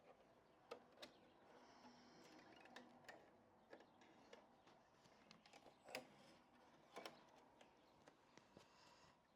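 Home embroidery machine stitching a design, heard faintly, with scattered sharp ticks and a brief high whine now and then.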